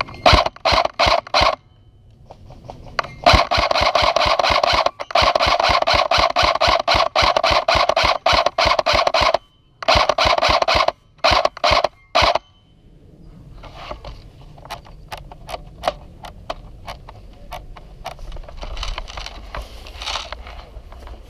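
Airsoft electric gun firing full-auto bursts: a few short bursts, then one long burst of about six seconds, then two more short bursts. Fainter scattered clicks and rustling follow for the last several seconds.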